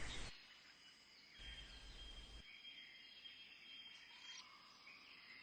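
Near silence, with only faint hiss and a few thin, high tones in the background.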